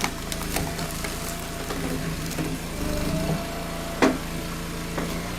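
Hydraulic log splitter running steadily under its engine while a knotty round splits, with several sharp cracks and knocks of wood, the loudest about four seconds in.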